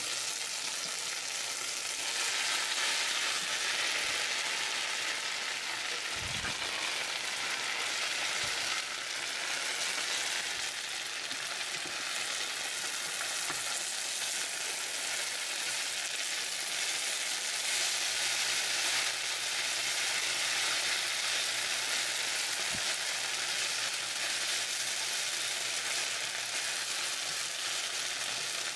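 Shredded hash browns and onion sizzling steadily in hot oil in a nonstick skillet, with a spatula now and then turning and scraping them in the pan.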